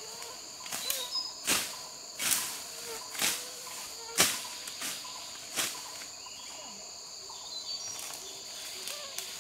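Steady high chirring of crickets or other insects, with about six sharp knocks at uneven spacing over the first six seconds.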